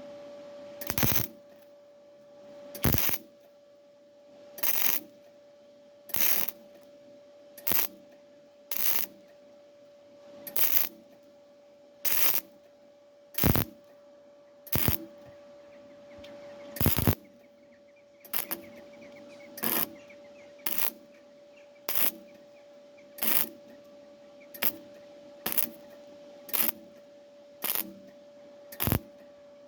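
MIG welder laying a run of short tack or stitch welds on car body steel, about twenty brief bursts one to two seconds apart and coming quicker in the second half, over a steady hum.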